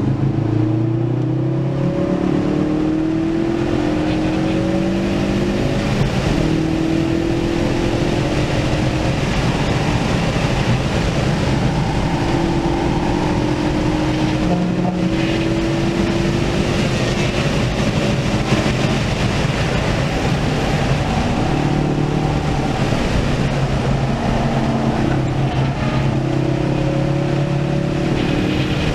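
Ford Focus RS's turbocharged 2.3-litre four-cylinder engine at full throttle on track, heard from inside the cabin. Its note climbs through the gears with short breaks at the upshifts, falls away under braking, then pulls again out of the corner, over steady wind and tyre noise.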